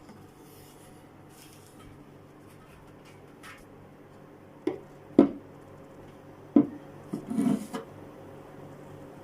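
Pieces of wood being handled: three sharp knocks about halfway through, then a short scrape of wood rubbing on wood.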